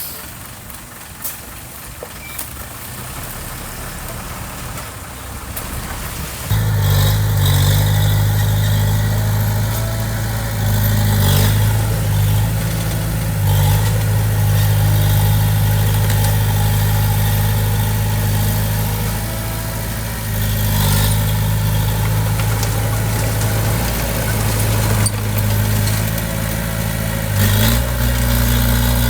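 Heavy construction machine's diesel engine running steadily, coming in abruptly after a few seconds of quieter clattering noise, with a slight rise in pitch near the end.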